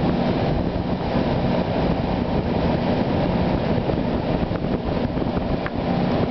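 1989 Friedrich Challenger 8,000 BTU window air conditioner running on high cool: a steady rush of air from the blower with a low hum underneath, the unit blowing cold.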